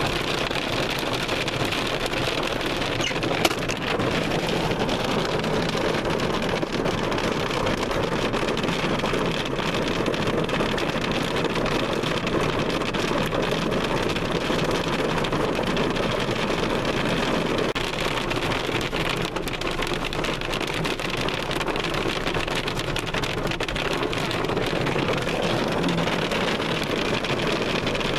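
Heavy hail falling without let-up: a dense, steady clatter of hailstones, with one sharper, louder hit about three and a half seconds in.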